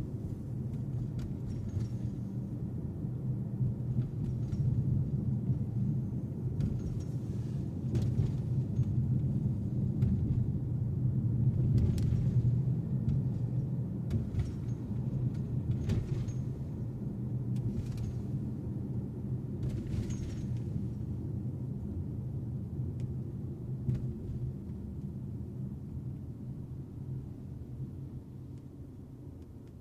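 Car driving at night: steady engine and road rumble heard from inside the car, with occasional light knocks from bumps in the road, easing off near the end as the car slows.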